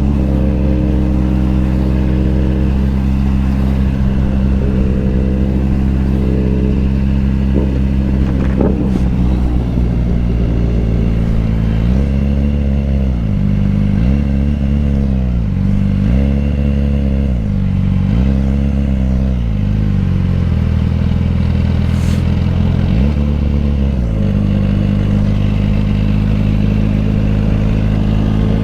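Motorcycle engine running at a steady pitch under a constant rush of wind and road noise. Midway through, the pitch rises and falls four times in a row, about every second and a half, and once more a few seconds later.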